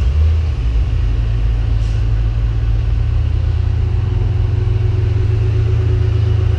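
Ford Mustang engines idling, a deep steady low rumble.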